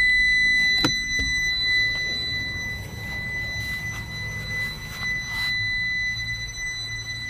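A continuous high-pitched electronic beep tone, steady in pitch, over a low rumble, with one sharp click a little under a second in.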